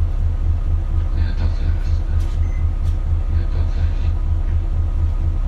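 Isuzu KL-LV280L1 city bus heard from inside the cabin while driving, its diesel engine giving a steady deep rumble with an even, regular throb.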